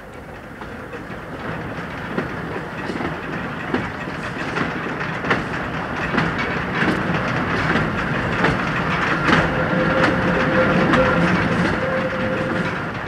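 Narrow-gauge railcar train running along the track, its wheels clattering over the rail joints and growing steadily louder as it approaches. A steady whine joins in during the second half.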